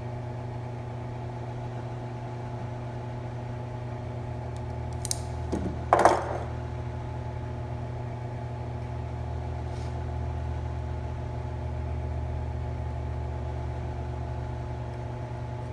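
Steady machine hum, with a couple of light clicks about five seconds in and one sharp snip about a second later as nippers cut into the heat-shrink tubing over a wire's solder joint.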